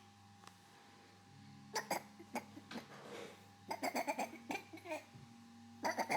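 A toddler's short vocal sounds: a run of brief squeals, grunts and babbles starting about two seconds in, over a faint steady hum.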